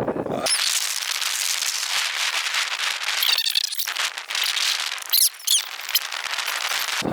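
Dense, high crackling hiss with a few short chirps about three and a half and five seconds in; it starts and stops abruptly.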